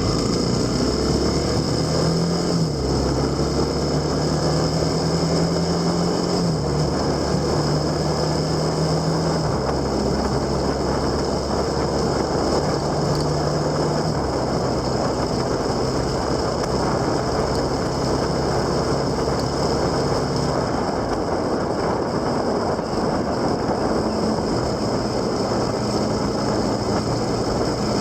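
Motorcycle engine running on the move with heavy wind and road noise; the engine note shifts in steps several times, as with gear changes.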